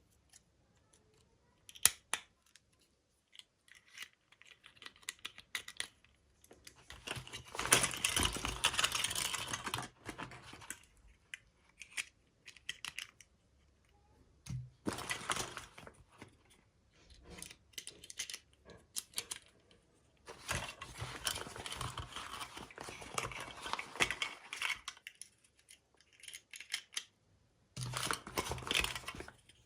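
Toy packaging being opened by hand: wrapping torn and crinkled in four bursts of a few seconds each, with small clicks and taps of handling between them.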